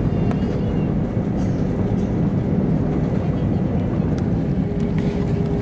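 Steady rumble of an Airbus A320's engines and airflow heard inside the cabin from a rear seat during landing. A thin steady hum joins in near the end.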